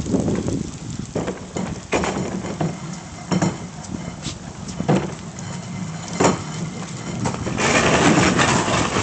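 Dust-storm wind gusting and buffeting the microphone, with scattered knocks and rattles through it; the wind rises and gets louder near the end.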